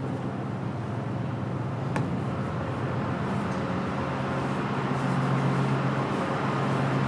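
Ship's machinery running with a steady low hum, growing a little louder toward the end, with a single sharp click about two seconds in.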